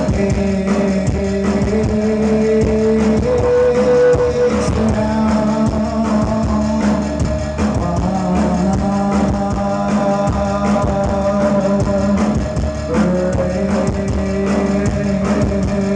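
Live synth-pop rock band playing: sustained keyboard and guitar notes over a steady drum beat, with little or no singing.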